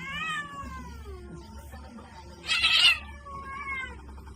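A cat meowing twice, each call falling in pitch, with a short loud rush of noise between the two calls.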